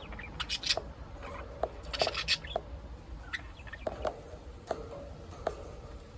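Budgerigars in a cage chirping: short, sharp high calls scattered irregularly, several in quick runs.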